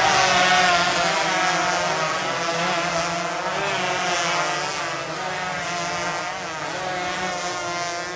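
Several Yamaha RX 115 two-stroke motorcycle engines racing at high revs, their buzzing pitches rising and falling and overlapping as the riders work the throttles. Loudest about the first second, then easing slightly.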